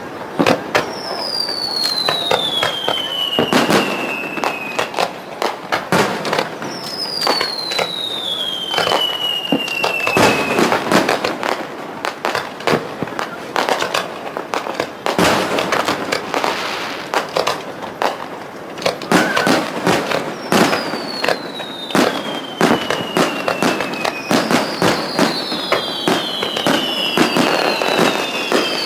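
Aerial fireworks display: rapid bangs and crackles of shells bursting, with whistling shells whose whistles fall in pitch over about three seconds each. The whistles come about a second in, again around seven seconds, and several overlap near the end.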